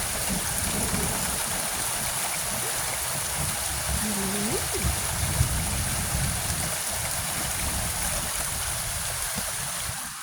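Heavy rain pouring down in a thunderstorm, a steady dense hiss with rumbling low noise underneath, easing off near the end.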